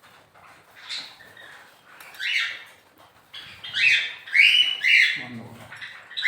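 Caged aviary birds chirping and squawking in short, repeated calls, busier and louder in the second half.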